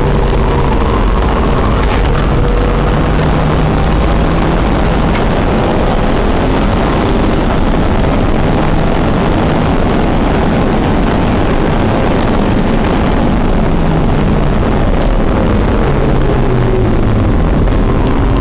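Car engine running hard on a race track, heard from inside the cabin, with heavy road and wind noise. The engine note rises and falls with throttle through the corners and drops about fifteen seconds in.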